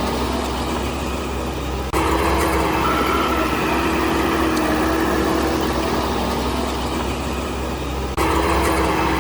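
Heavy diesel engine of construction machinery running steadily with a deep rumble and a steady whine above it. The level jumps abruptly about two seconds in and again near the end.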